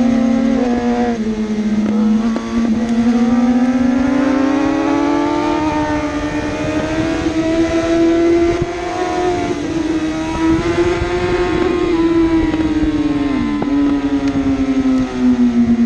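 1000cc superbike engine running hard at racing revs. Its pitch rises and falls with throttle and gear changes, with a few brief dips, one sharp dip about thirteen seconds in.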